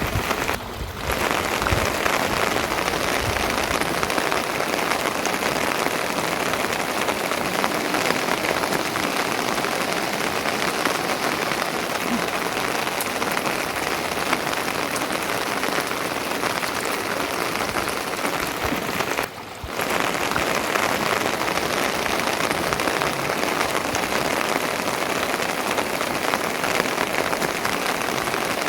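Steady rain falling, an even hiss with the patter of drops, that dips briefly twice: about a second in and again about two-thirds of the way through.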